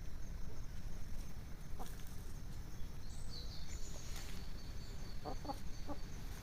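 Domestic hens clucking, a quick run of three or four short low clucks about five seconds in, as they feed. A few faint clicks and a high thin chirp in the middle, over a steady low rumble.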